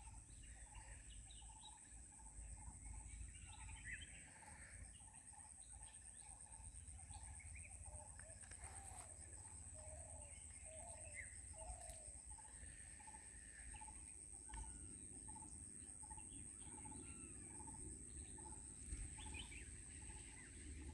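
Faint outdoor ambience: a steady high-pitched insect drone, with a bird repeating a short low note at an even pace of about one and a half notes a second and scattered higher chirps from other birds.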